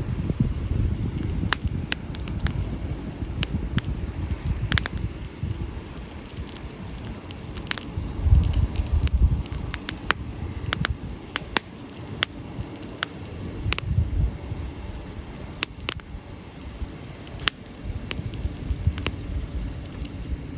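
Wood campfire crackling: sharp, irregular pops and snaps over a low rumble that swells now and then.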